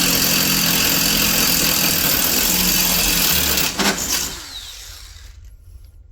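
Power drill running steadily as it bores a bolt hole, stopping a little under four seconds in with a knock or two and a falling whine as the motor winds down.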